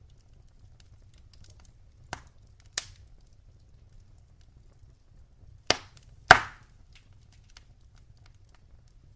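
Wood fire in a fireplace crackling: small faint crackles over a low steady rumble, with four sharp pops, a pair about two seconds in and a louder pair about six seconds in, the last the loudest.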